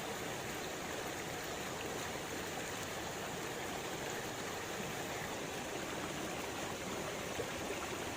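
Steady sound of a flowing stream, an even rush of water with no bird song standing out.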